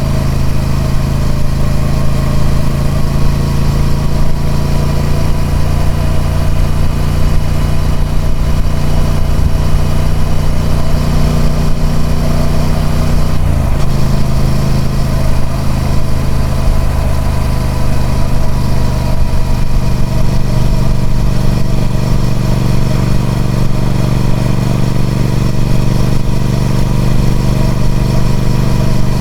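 Triumph Speed Twin 1200's parallel-twin engine running on its stock exhaust at a steady pace. Its pitch drops abruptly about 13 seconds in, like a gear change, then eases a little lower and holds steady.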